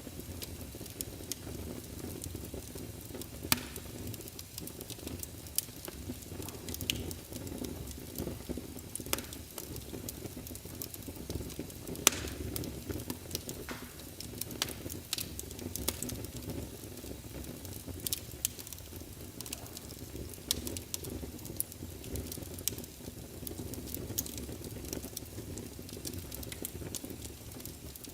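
Wood fire burning in a fireplace: a steady low rumble with frequent small crackles and occasional louder pops and snaps.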